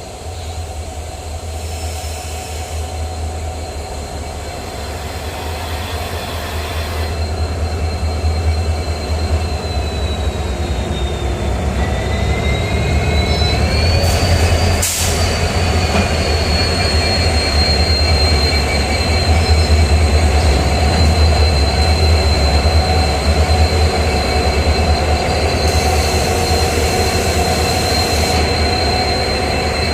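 Train rolling on rails with a steady high-pitched wheel squeal over a low rumble, growing louder; the squeal dips and rises in pitch near the middle, where there is one sharp click.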